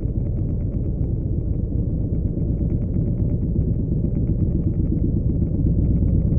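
Motorcycle engine idling steadily, a little louder near the end.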